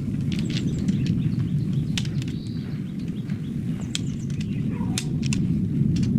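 Small birds chirping in short calls over a steady low rumble, with scattered sharp ticks.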